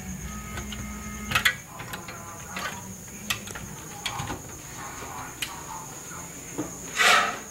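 Computer parts being handled during assembly: a low steady hum stops with a sharp click about a second and a half in, then scattered light clicks and knocks, and a louder scraping rustle near the end.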